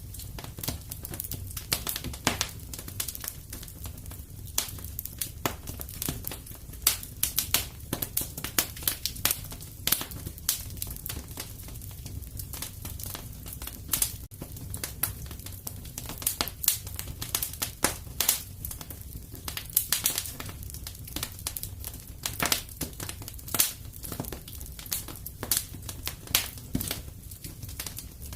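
Wood fire crackling in a fireplace: many irregular sharp pops and snaps, some louder than others, over a steady low rumble of the flames.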